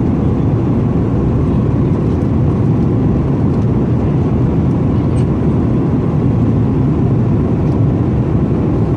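Steady low rumble of an Airbus A320's engines and rushing air heard from inside the passenger cabin, holding an even level throughout.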